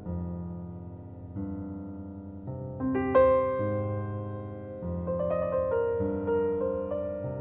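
Slow keyboard piano music: held chords changing about every second and a half, with a few higher melody notes picked out over them in the second half.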